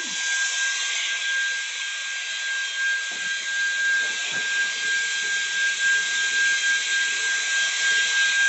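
Cecotec Scoba 2100 Twice cordless stick vacuum running steadily: a hiss of airflow with a constant high whine from its digital brushless motor, and a few faint knocks about three to four seconds in.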